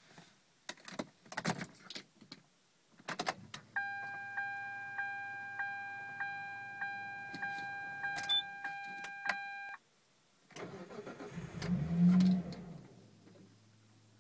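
Attempt to start a car that won't start: keys rattling and clicking, then the dashboard warning chime pinging about ten times, then the starter cranking the engine for about two seconds, leaving a low hum.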